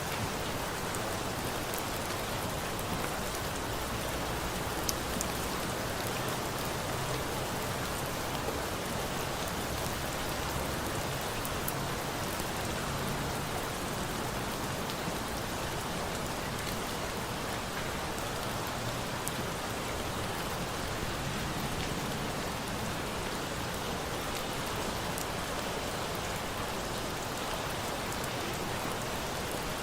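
Steady rain falling, an even hiss with a few scattered sharp ticks.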